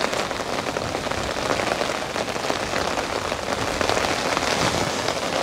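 Heavy rain falling steadily, a dense hiss full of small drop impacts close by.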